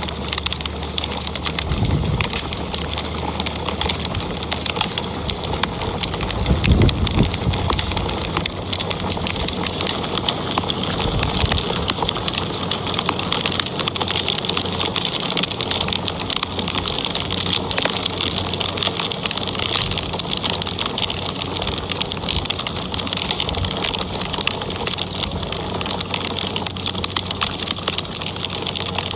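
Wood fire crackling: a steady hiss full of small quick pops and snaps. A low dull swell comes about seven seconds in.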